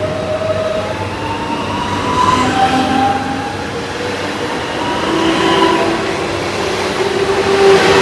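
Train passing close by: a steady rail rumble, with whining pitched tones that rise and shift in steps.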